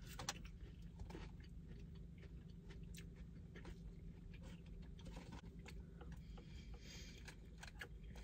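Faint close-up chewing of a mouthful of burrito bowl, with scattered soft mouth clicks over a low steady hum.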